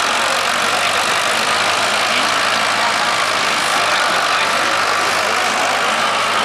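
Vintage tractor engine running loud and steady, with no revving or change in pitch.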